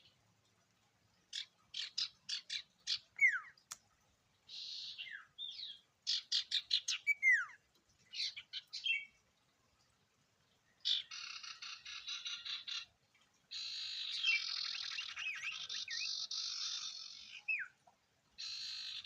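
A sirtu songbird singing a lure song. First come quick runs of sharp, high notes, each run ending in a falling whistle. From about eleven seconds on it turns into long, dense chattering trills with a few falling whistles mixed in.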